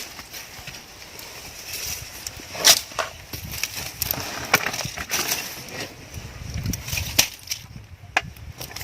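Wood being snapped and knocked: a run of irregular sharp cracks and knocks, the loudest a little under three seconds in.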